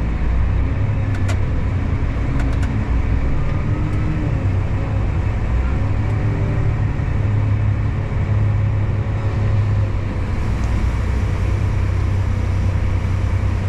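Heavy farm machine's engine running steadily under load while a load of harvested corn is unloaded, with a deep, even drone and a few light clicks in the first few seconds.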